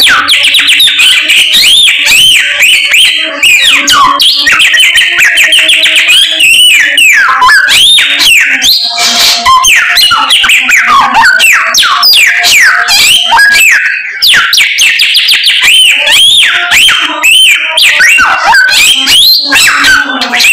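A samyong songbird singing nonstop, close and loud: a rapid, varied stream of whistles, sweeping slurred notes and trills. Its song is packed with mimicked phrases of other birds.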